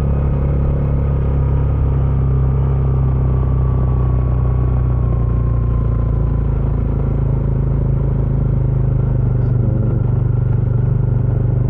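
Bajaj Dominar 400's single-cylinder engine running steadily through its stock exhaust while the motorcycle is ridden at a steady pace. A faint higher tone slowly falls over the first several seconds.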